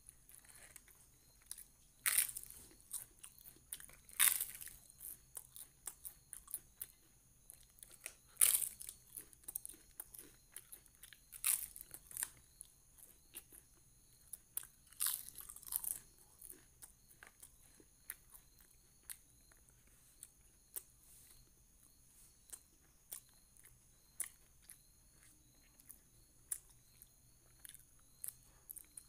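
Crisp papad being broken by hand and crunched while chewing: sharp, loud crunches several times in the first half, then softer chewing clicks.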